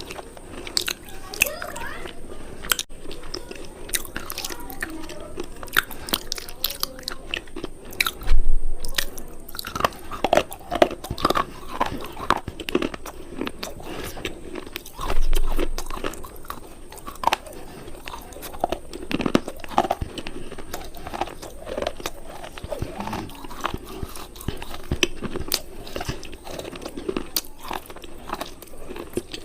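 Close-up biting and chewing of hard, brittle cubes: a continuous run of sharp crunches and snaps. Two louder, deeper thumps come about eight and fifteen seconds in.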